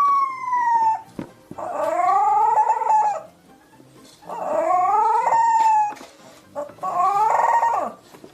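A dog howling in four long calls. The first slides down and ends about a second in; the next three each rise and then hold their pitch for about a second or more.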